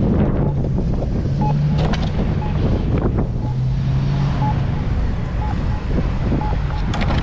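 Wind buffeting the microphone over a steady low rumble of longboard wheels rolling on pavement, with a few faint knocks.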